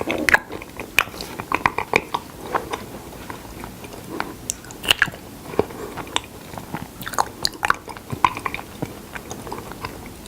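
Close-miked mouth sounds of a person chewing honey, a run of many short, irregular wet clicks and smacks.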